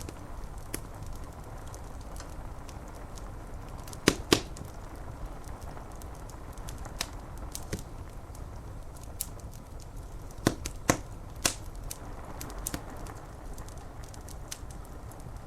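Wood fire crackling, with scattered small clicks and a few loud pops: two about four seconds in and three more a little after ten seconds. A steady low rain sound runs underneath.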